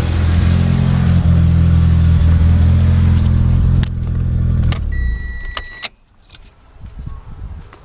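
Mitsubishi DSM's four-cylinder engine running with a persistent misfire, then shut off a little over halfway through. A brief steady beep and keys jingling follow.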